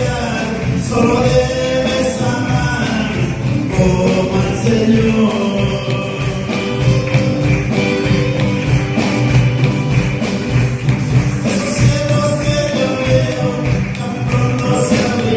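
Live gospel music: a band plays with a tambourine shaking over it, and singing runs through it.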